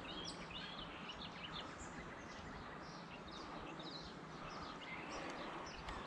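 Birdsong: many short chirps and calls from several birds, fairly faint, over a steady background hiss.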